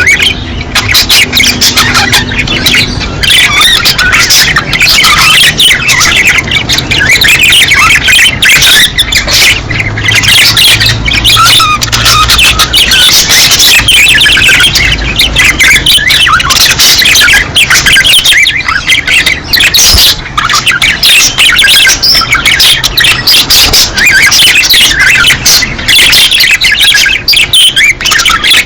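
A group of budgerigars chattering and warbling in breeding-season song: a continuous, dense mix of overlapping chirps, squawks and quick warbles.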